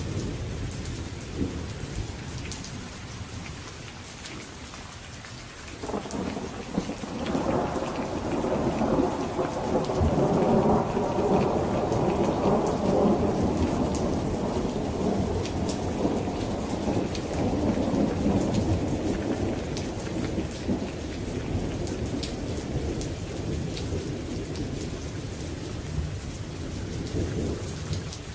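Steady rain falling, with a long roll of thunder that starts suddenly about six seconds in, swells, and slowly dies away over some twenty seconds.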